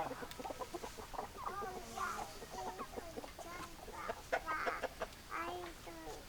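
Several chickens clucking, many short calls overlapping one another.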